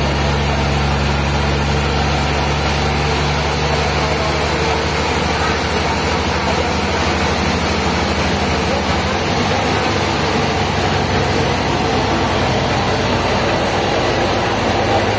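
A machine's engine running steadily over a constant broad noise, its low hum dropping away about nine seconds in.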